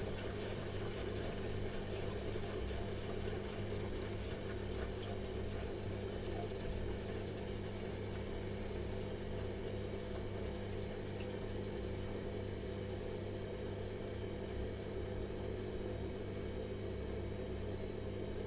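Washing machine running with a steady, even hum.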